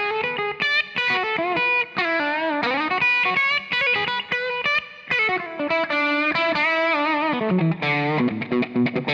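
Telecaster electric guitar with a light overdrive, playing a quick single-note lead line full of string bends, then settling on a held, bent lower note near the end.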